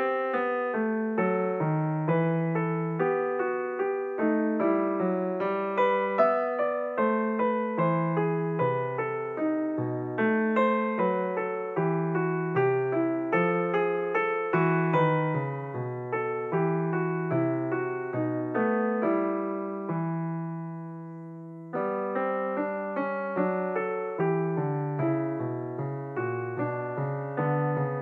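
Background piano music: single notes and chords each struck and ringing out, with a held chord fading away about twenty seconds in before the playing resumes.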